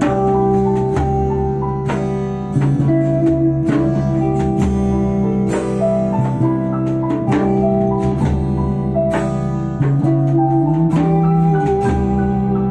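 Live band playing an instrumental passage between sung verses: guitar over steady percussion, with no vocals.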